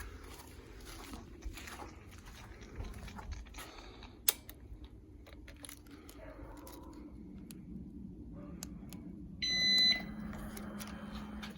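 A few quiet clicks, then a low steady hum and, about nine and a half seconds in, a short electronic beep lasting about half a second, as the KTM 990 Super Duke R's ignition is switched on before a cold start; the engine is not yet running.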